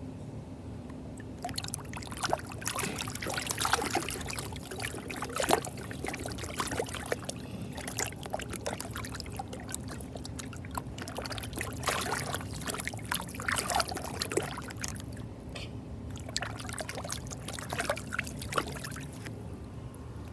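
Water splashing and dribbling in a small pool as a puppet is dunked and moved through it: irregular splashes from about a second and a half in until shortly before the end, over a steady low hum.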